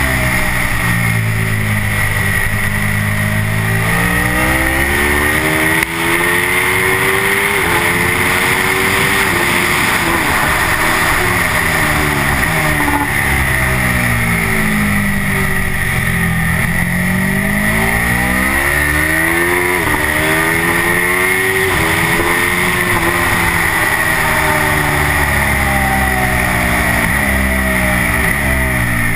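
Aprilia RSV4 Factory's V4 engine under hard acceleration on track: it revs up through the gears with quick upshifts, then falls in pitch under braking and downshifts. This happens several times, with the pitch climbing again out of each corner.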